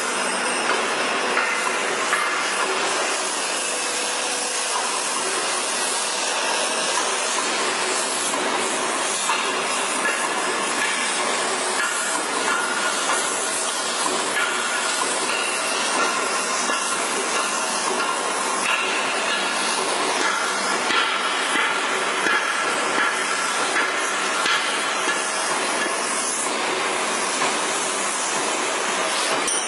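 Steady machinery noise: a continuous hiss with faint steady tones running through it, typical of heavy metal-cutting work.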